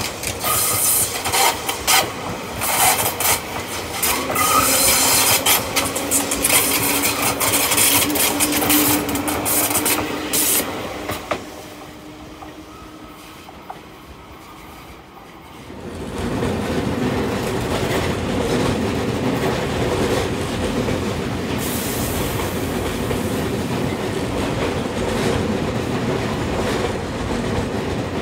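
Tobu 200-series limited-express train running past close by, its wheels clattering over the rail joints in quick clicks, with a brief wheel squeal partway through. After a quieter spell about halfway, another 200-series train draws near and passes with a steady rumble.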